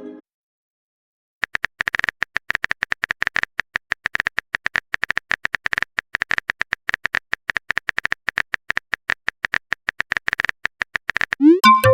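A rapid, irregular run of short clicks, the typing sound effect of a chat-message animation. Near the end a short rising swoosh and a few chime tones, a message-sent alert sound.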